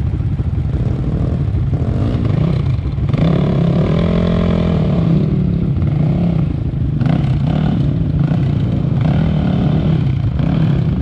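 Dirt bike engine running on a rough trail, its pitch rising and falling as the throttle is worked, with clattering over the ground.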